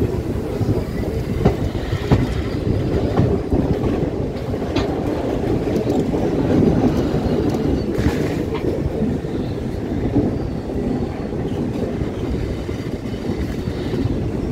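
Passenger train coaches running along the track, heard from an open coach doorway: a steady rumble of wheels on rails with scattered sharp clicks.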